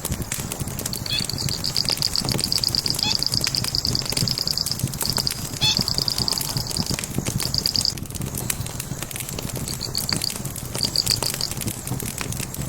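Log fire crackling with scattered sharp pops over a low rumble. A rapid high-pitched trill, a fast run of pulses, repeats over it for several seconds from about a second in, then returns twice more briefly near the end.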